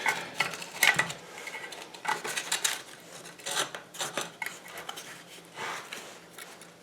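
Irregular metallic clinks, taps and scrapes of metal parts being handled, a dozen or so scattered light strikes with no motor running.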